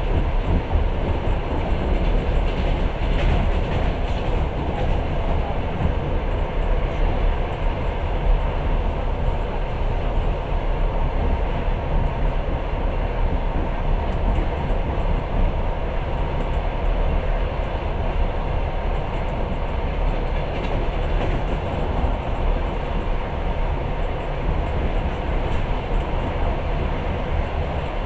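Passenger train running along the track, heard from inside the carriage: a steady rumble of wheels on rails.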